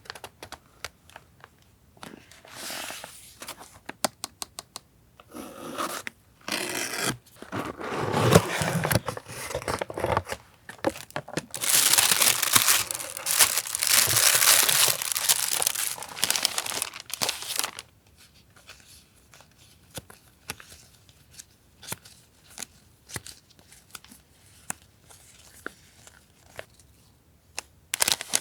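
Paper and packaging handled up close: scattered crinkles and tears that build into a long stretch of loud crinkling midway, then give way to light taps and rustles.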